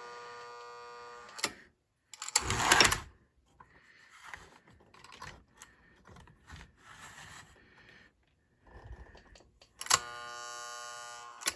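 Steady electrical buzz from a seized American Flyer 372 locomotive under power, its motor humming without turning, cut off with a click after about a second and a half. A louder clatter of handling follows, then faint clicks, and the buzz comes back for about a second and a half near the end before clicking off. The owner suspects a faulty E-unit or gears needing cleaning.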